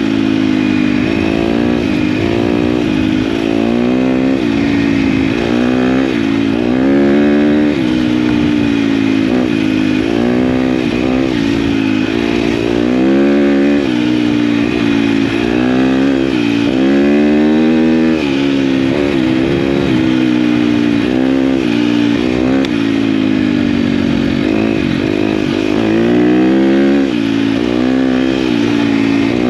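KTM dirt bike engine being ridden off-road, its pitch rising and falling every second or two as the throttle is opened and closed.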